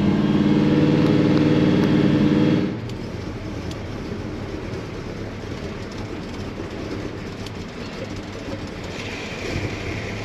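A freshly started car engine running at a steady speed, loud, cuts off abruptly about two and a half seconds in. A quieter steady noise follows, with a faint higher tone coming in near the end.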